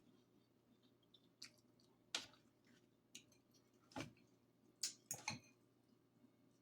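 A person eating spaghetti and white fish up close to the microphone: quiet chewing broken by about six short, wet mouth clicks and smacks, a few of them in quick succession about five seconds in.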